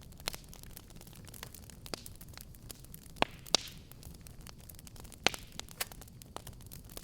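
Wood fire crackling: irregular sharp pops and snaps over a low steady rumble of burning, with the loudest pops a pair a little past three seconds in and one a little past five seconds.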